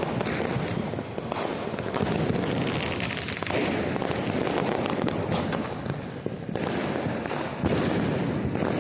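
Firecrackers going off nonstop: a dense, continuous crackle of many small bangs, with a few louder single bangs among them and a louder burst near the end.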